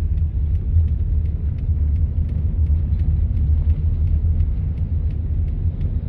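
Steady low rumble of a car driving, heard from inside the cabin, with a faint light ticking about three times a second.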